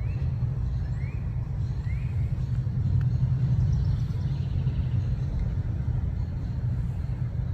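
Steady low rumble, with three faint short rising bird chirps about a second apart near the start.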